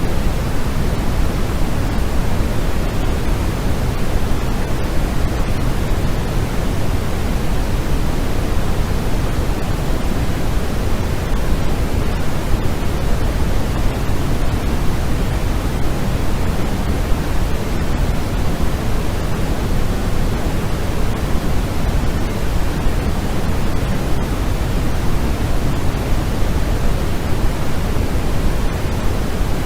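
Steady white noise for sleep: an even, unbroken hiss with the most weight in the low end, never changing.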